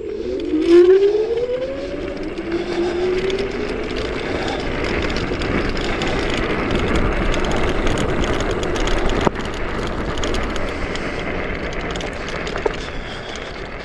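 Chaos FreeRide dual-motor electric scooter accelerating at full power: the motor whine rises in pitch over the first few seconds, under a rushing wind-and-tyre noise that builds with speed. A sharp click comes after about nine seconds, and the sound drops a little after it.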